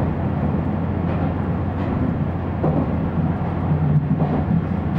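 Diesel-hauled passenger train running along the track: a steady low rumble with a few faint knocks from the wheels.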